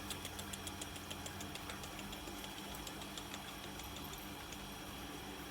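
A small motor humming steadily, with faint fast ticking over the hum.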